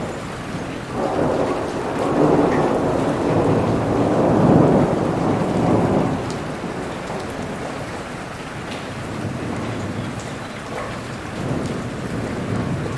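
Steady rain with a long roll of thunder that swells in about a second in, peaks, and fades away by about halfway through.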